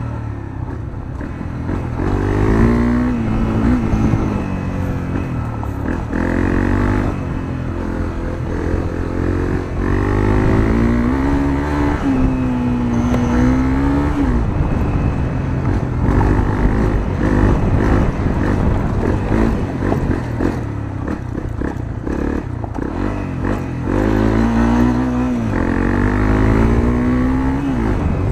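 Honda CRF250L's single-cylinder four-stroke engine breathing through a Moriwaki aftermarket muffler, ridden on the throttle: the revs climb and drop back several times as the bike accelerates through the gears and eases off.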